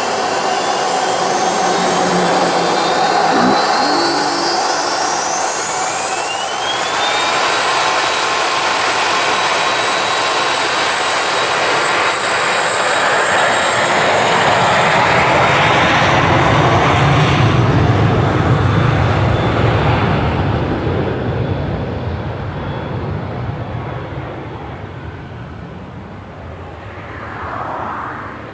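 Cessna 680 Citation Sovereign's twin Pratt & Whitney PW306C turbofan engines spooling up, a whine rising in pitch over the first several seconds under a loud jet roar. The roar builds to a peak at about two-thirds of the way through, then fades away, with a small swell again near the end.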